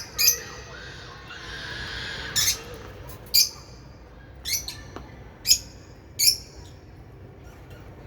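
Lovebirds giving short, high-pitched chirping calls, about six of them spaced roughly a second apart.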